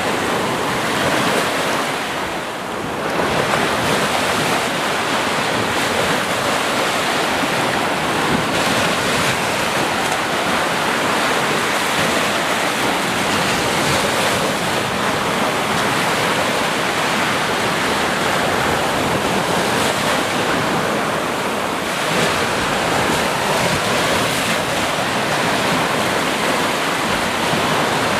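Sea waves washing in a steady rush of surf, easing briefly about two and a half seconds in before swelling back.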